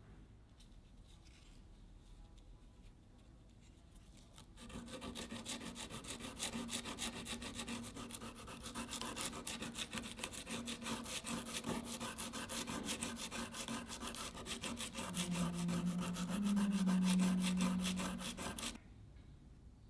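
Rapid back-and-forth rasping strokes of a hand tool working the steel of a kiridashi knife. The strokes start about four and a half seconds in, grow loudest near the end and stop abruptly just before the end.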